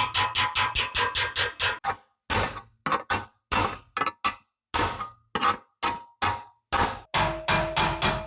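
Rapid hammer blows on steel sheet metal, about five strikes a second with a metallic ring, stopping abruptly three times and starting again.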